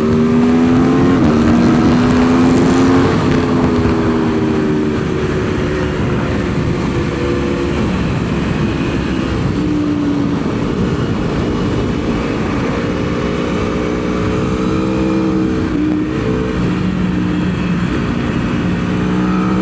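Aprilia Tuono V4 motorcycle's V4 engine under hard acceleration on track, its pitch climbing and stepping at gear changes and falling once about halfway as it slows, with steady wind noise over the microphone.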